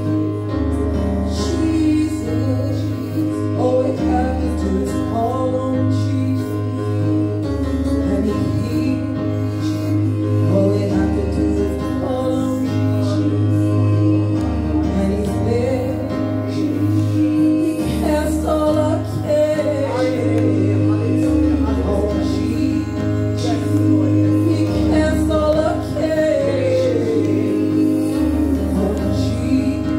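Church praise team singing a gospel song, women's and men's voices over a band with a steadily stepping bass line.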